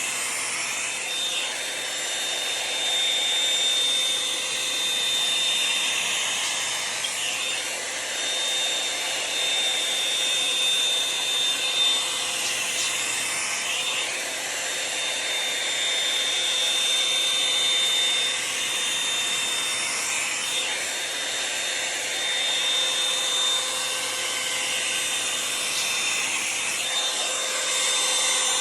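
Revlon One-Step hot-air brush running steadily, its fan blowing with a high whine. Every few seconds the sound swishes and rubs as the brush is drawn through the hair.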